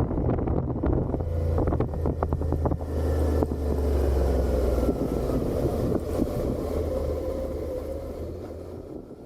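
Suzuki SV650's 90-degree V-twin engine running through its stock exhaust while riding, with wind buffeting the microphone. The sound fades away near the end.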